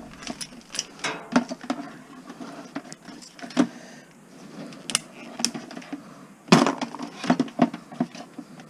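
Plastic Christmas-light bulb sockets cracking and snapping as they are broken off the wire: a run of irregular sharp cracks and clicks, the loudest about six and a half seconds in. The plastic is cold and brittle, which the scrapper blames for the sockets coming off hard.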